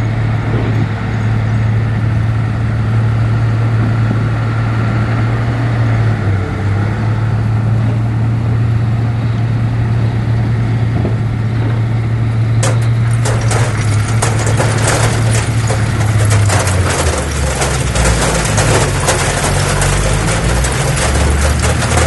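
A heavy diesel engine of earthmoving machinery running with a steady low hum. About halfway through, a dense rattling, scraping noise starts and keeps going while the engine note drops and wavers.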